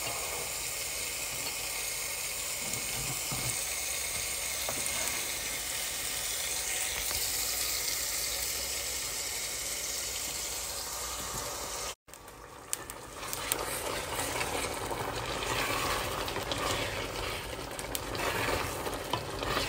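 Sauce base frying and sizzling in a pot with a steady hiss, while a wooden spoon stirs and scrapes against the pot. The sound cuts out for an instant about twelve seconds in, then the stirring and scraping grow more frequent with many small clicks.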